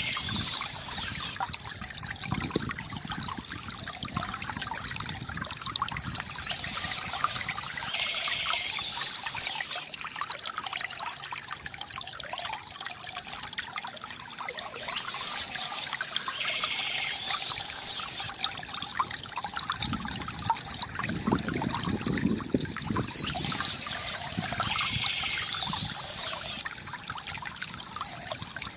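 Stream water trickling and splashing steadily. A brighter, higher sound lasting a few seconds recurs about every eight seconds over it.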